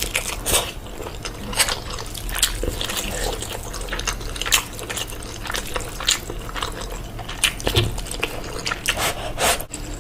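Close-up mukbang eating sounds: wet chewing and mouth smacking on cheesy noodles and chicken, with irregular sharp clicks throughout.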